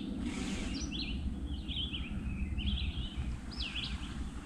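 A songbird chirping in short, repeated phrases over a steady low rumble.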